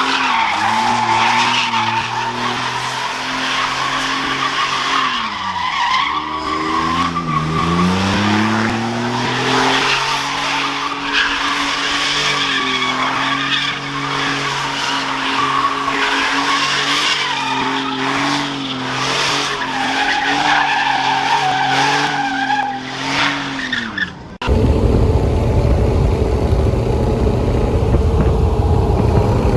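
Pickup truck engine and exhaust held at steady high revs, with a wavering high squeal over it. The revs drop and climb back about six to eight seconds in. Near the end it cuts abruptly to a deep, rough rumble.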